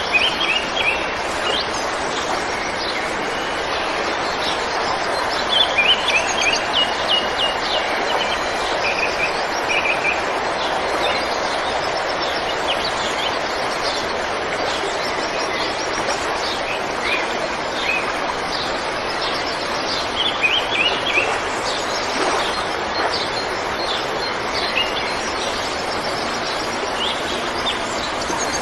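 Steady flowing river water, with birds chirping over it in clusters of quick high notes every few seconds.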